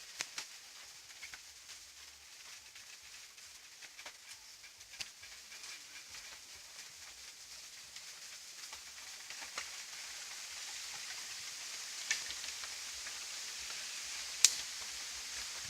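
Small campfire of straw and twigs burning, with a steady hiss that builds up and scattered sharp crackles and pops. The loudest pop comes near the end.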